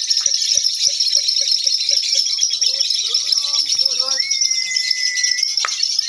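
Lovebirds chattering in a continuous, high-pitched twittering song (ngekek), with a run of short, lower repeated notes at about four a second in the first two seconds and a steady held whistle-like tone for over a second near the middle.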